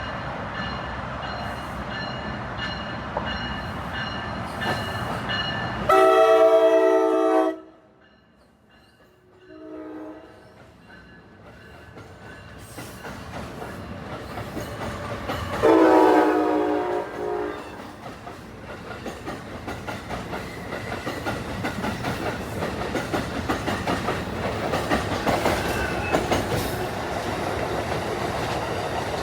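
Passenger trains moving through a station, with a multi-tone train horn sounded in a long blast, a short blast, then another long blast, and wheels clattering over the rail joints, growing louder near the end as a train passes close.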